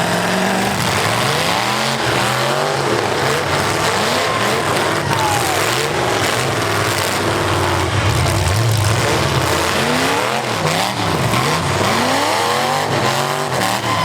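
Several full-size V8 demolition derby cars' engines revving up and down at once, their pitches rising and falling over one another.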